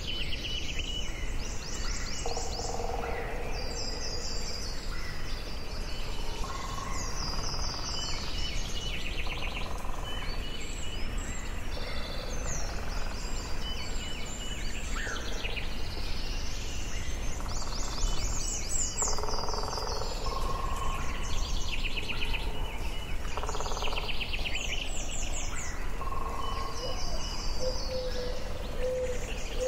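Forest ambience: several songbirds singing and calling, with repeated fast trills and chirps, over a steady low rush of wind or distant background noise.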